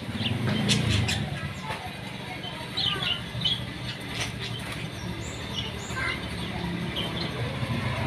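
Parakeet giving a few short, high chirps, clustered about three seconds in and again around five seconds, with scattered clicks and a low steady hum underneath.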